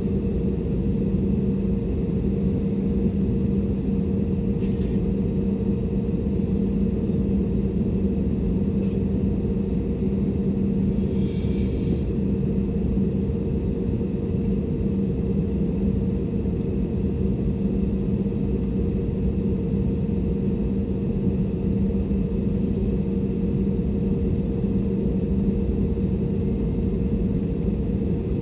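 Steady cabin noise inside an Airbus A320neo: a continuous engine and airflow rumble with a steady low hum and no change in pitch.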